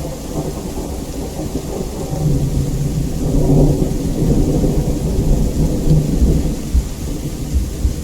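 Steady heavy rain with a long roll of thunder rumbling underneath. The thunder builds about two seconds in, is loudest around the middle, and eases off near the end.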